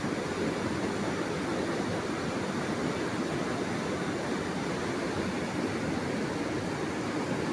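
Steady rushing noise with no pitch and no change in level.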